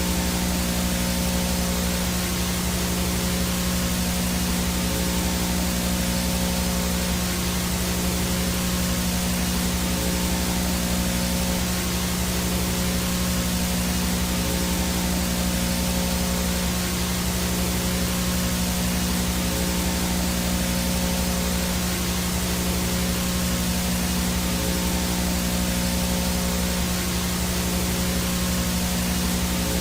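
VHS no-signal static: a steady hiss with a low buzzing hum beneath it and a thin high whine, unchanging throughout.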